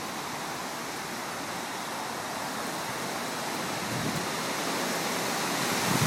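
Thunderstorm wind blowing hard, a steady rushing noise that builds slowly toward the end.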